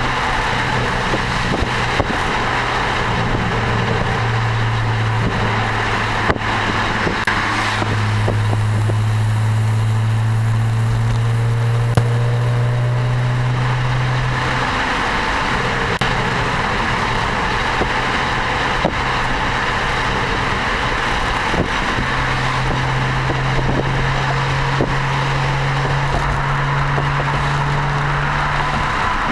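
BMW 335i's turbocharged straight-six running through an Eisenmann Race exhaust at a steady cruise: a steady low exhaust drone over road and tyre noise. The drone drops away for several seconds past the middle, then comes back.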